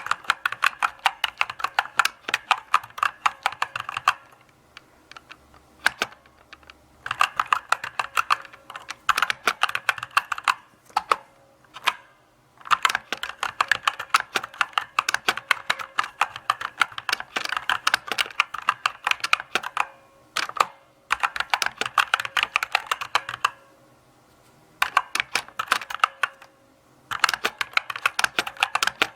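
Typing on a mechanical keyboard: runs of rapid key clicks a few seconds long, with brief pauses between them.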